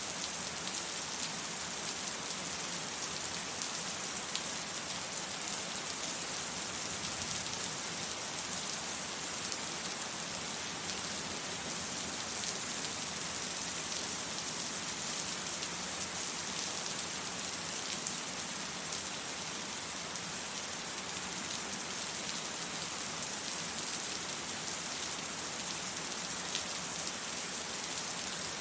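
Steady rain falling: an even hiss with faint scattered drop ticks, no thunder.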